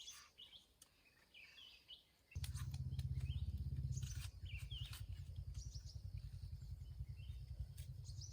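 Small birds chirping outdoors in short repeated calls. A little over two seconds in, a loud low rumble starts suddenly and carries on steadily under the birdsong.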